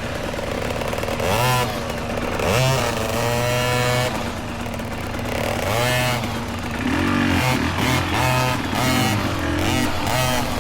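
Dirt bike engine revving up and falling back again and again as the throttle is blipped on and off along a tight, rooty trail.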